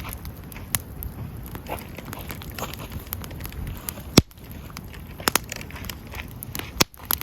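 Wood fire crackling, with sharp pops now and then, the loudest about four seconds in, over a low steady rumble.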